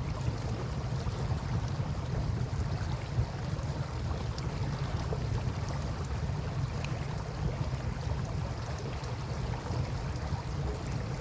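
Steady river water lapping and flowing, with a low rumble underneath and a few sharp crackles and pops from a wood campfire.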